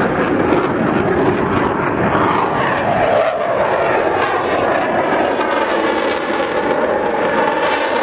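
RAF BAE Hawk T2 jet trainer flying a display pass, its turbofan running as a steady loud roar whose tone sweeps slowly up and down as the aircraft moves past.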